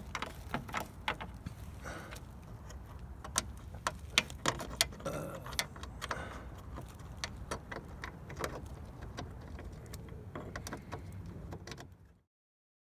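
Scattered light clicks and taps of parts being handled, over a low steady hum; the sound cuts off abruptly near the end.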